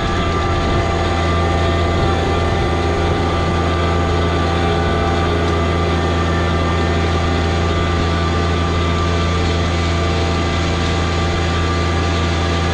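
John Deere 1023e compact tractor's three-cylinder diesel engine running steadily at an even speed.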